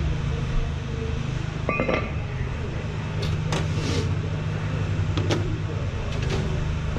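Steady low mechanical hum, with a few sharp metallic clicks and clinks of parts being handled.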